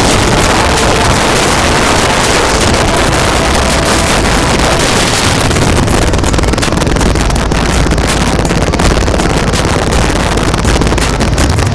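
Loud, steady wind rush on the microphone of a moving motorbike, with a low rumble of the ride beneath it.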